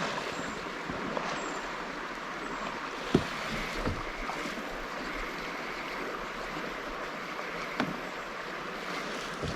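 Steady lake water and wind noise around a fishing kayak, with a few light knocks, one about three seconds in and another near the end.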